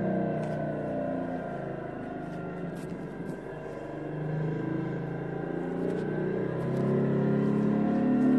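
Motorcycle engine running, its pitch falling over the first few seconds and then rising again, getting louder near the end as it speeds up.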